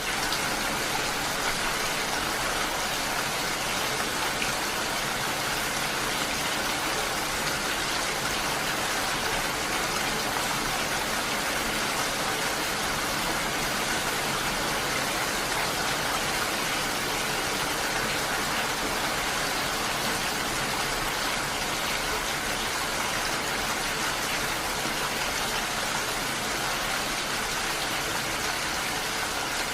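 Steady rain, an even hiss of falling water that does not change in level.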